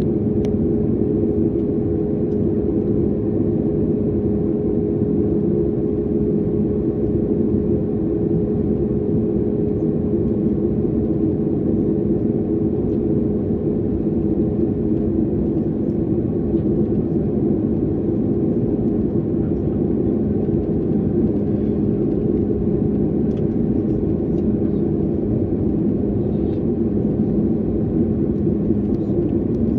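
Jet airliner cabin noise: a steady rush of engine and airflow sound with a constant low hum, unchanging throughout.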